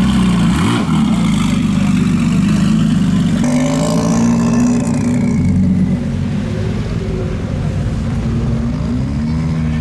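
Car engine running steadily, with a brief rev that rises and falls about half a second in and another near the end.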